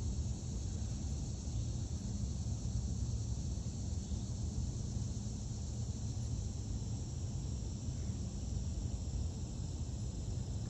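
Outdoor nature ambience: a steady, high-pitched insect chorus drones without a break over a constant low rumble.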